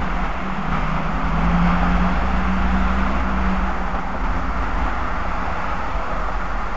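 A vehicle running in motion: a steady low rumble and road noise, with a low hum that fades out about three and a half seconds in.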